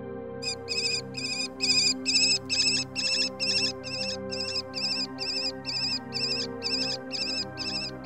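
A bird call: a rapid, regular run of short, high, wavering notes, about two or three a second, over steady background music.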